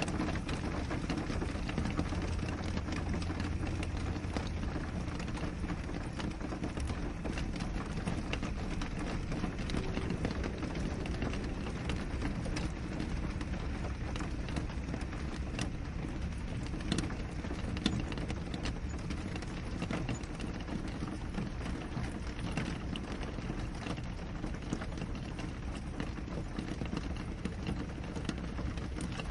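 Steady rain on a window: a constant hiss with many small drops ticking against the glass.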